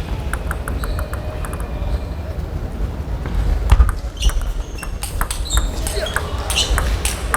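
Table tennis ball clicking against the table and bats: a quick run of light clicks near the start, then a rally of irregular sharp hits from about five seconds in, over the low hum of a large hall.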